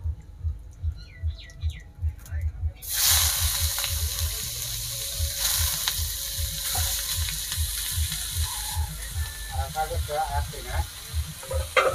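Chopped leafy greens dropped into hot oil in a wok, setting off a sudden loud sizzle about three seconds in that carries on as steady frying. A low, regular thudding runs underneath.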